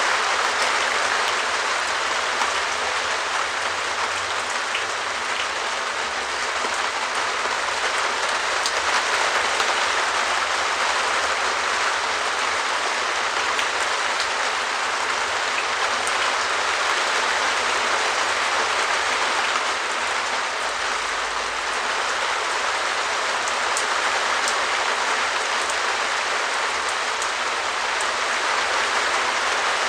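Steady rain falling on a perspex shed roof: a dense, even patter with scattered individual drop ticks.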